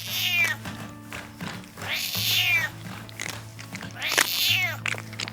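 Kitten meowing three times, about two seconds apart, each a high call that falls in pitch, over soft background music with a steady low tone.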